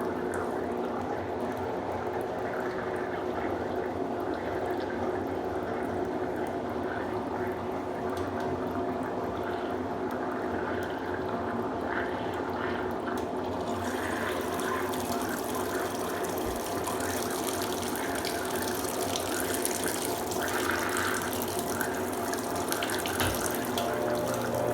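Consul Supercargo top-load washing machine draining and spinning up on its second spin ramp: a steady motor and drain-pump hum with water rushing out. About fourteen seconds in, a brighter hiss of water joins.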